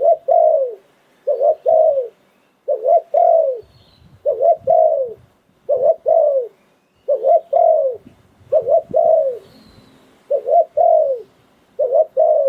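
A spotted dove cooing the same three-note phrase over and over, about once every one and a half seconds: two short coos and then a longer one that falls in pitch. This is a decoy call of the kind used to lure wild doves. Faint chirps of small birds come in now and then.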